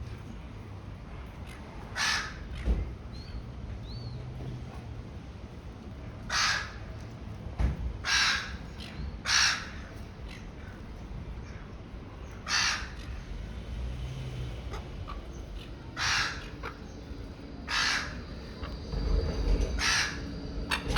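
A bird giving loud, harsh, caw-like calls, about eight of them, each under half a second and a few seconds apart, over a steady low outdoor rumble.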